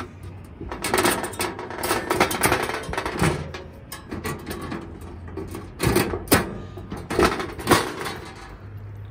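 Gear being handled as a portable camp stove is pulled out of storage: a run of clattering knocks and bangs, with the loudest clusters about a second in and again around six to eight seconds in.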